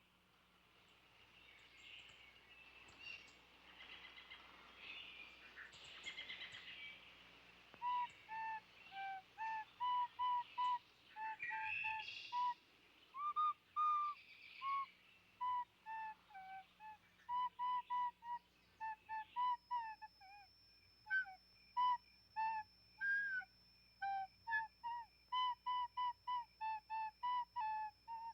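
A soft hiss swells over the first several seconds, then a run of short, quick, bird-like chirping notes comes in, uneven in pitch and spacing. From about twenty seconds in, a thin steady high tone sounds beneath them.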